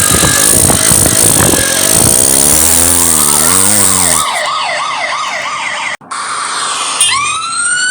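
Cartoon vehicle sound effects: a noisy rattling engine-like sound, then a fast warbling siren from about halfway, and a siren beginning to rise near the end.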